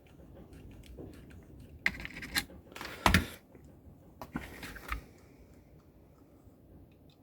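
Small clicks, taps and rustles of components and hand tools being handled while capacitors are fitted to a loudspeaker crossover board. It is busiest between about two and five seconds in, with a sharp click near three seconds the loudest.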